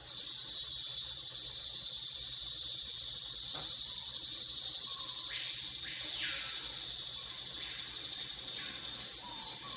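Insect chorus, a steady high-pitched buzzing that cuts in suddenly and holds without a break. From about five seconds in, a few short, fainter calls drop in pitch beneath it.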